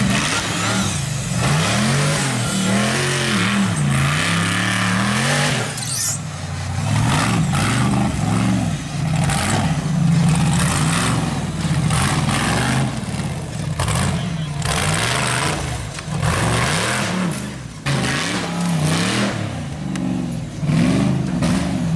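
Off-road race truck engine revving hard, its pitch climbing and dropping over and over as the driver works the throttle on the rocks, with repeated bursts of noise over it.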